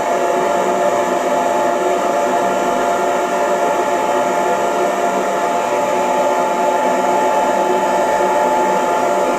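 Hair dryer running steadily, a constant blowing rush with a steady motor whine.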